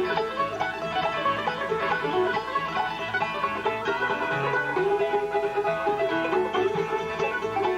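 Live bluegrass band playing an instrumental break: quick plucked banjo, guitar and mandolin notes over an upright bass thumping out a steady beat.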